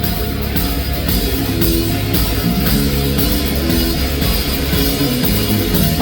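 Live rock band playing an instrumental passage between vocal lines: distorted electric guitar, bass and drum kit.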